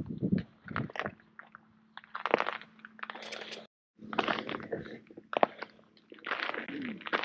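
Irregular crunching and scraping, with a faint steady hum underneath; the sound drops out briefly a little over halfway through.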